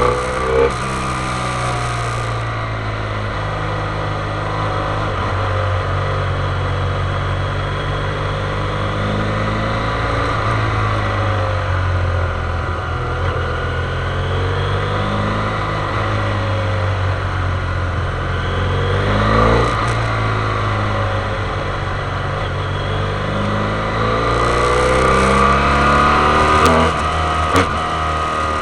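Motorcycle engine running on a downhill ride, its revs rising and falling over and over, with a few brief knocks.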